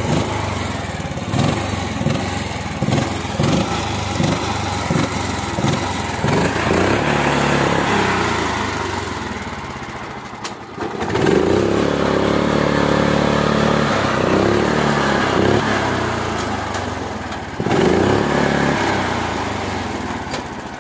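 Mini tractor's small engine running hard, its pitch rising and falling with the load. The revs sag about halfway through, then pick up sharply again, with another surge near the end.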